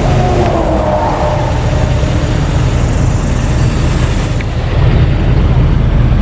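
Steady traffic rumble from the interstate, with one vehicle going by about a second in, its pitch falling as it passes.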